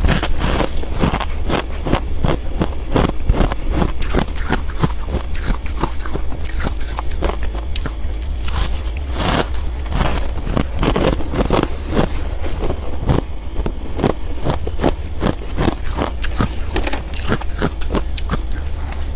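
Close-up crunching of freezer frost being bitten and chewed: a rapid, irregular run of crisp crunches, over a steady low hum.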